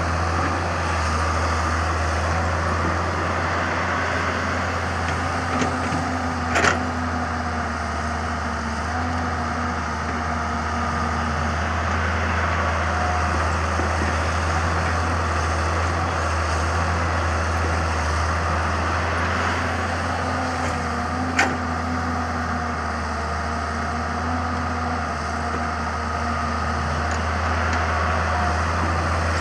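Samsung excavator's diesel engine running steadily at work, with a deep drone and shifting tones higher up. Two short, sharp knocks stand out, one about a quarter of the way in and one about two-thirds in.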